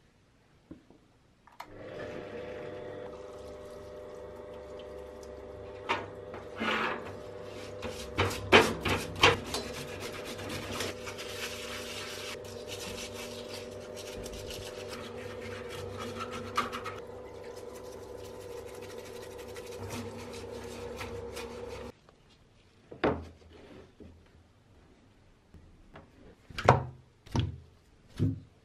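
A small electric motor runs steadily for about twenty seconds under scraping, rubbing strokes, then cuts off suddenly; a few separate knocks follow near the end.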